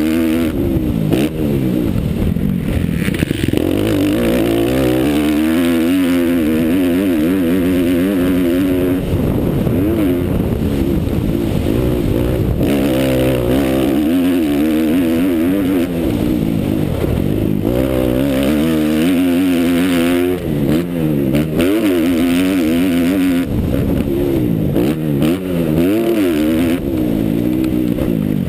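Motocross bike engine at close range, revving up and down over and over as the throttle is opened and closed. Each rise and fall lasts a second or two, with brief drops in between.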